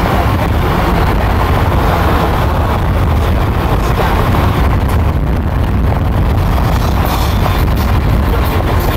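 Steady, loud vehicle noise: a continuous low rumble with wind buffeting the microphone.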